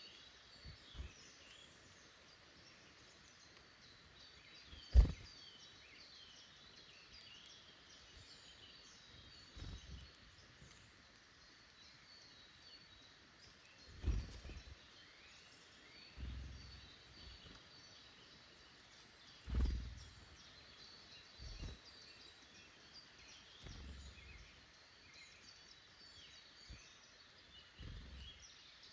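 Small woodland birds chirping and calling softly and continuously. Several dull low thumps break in, the loudest about five seconds in and others around the middle and near the end.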